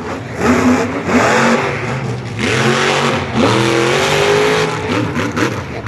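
Monster truck engine revving hard through a freestyle run, its pitch climbing and dropping several times in quick succession.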